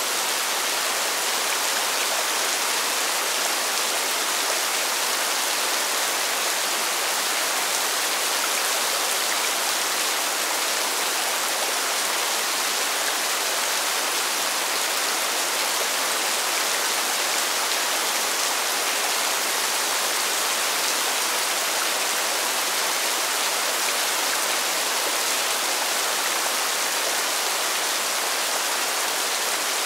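Constant rain hitting pavement, a steady, even hiss of drops that does not let up.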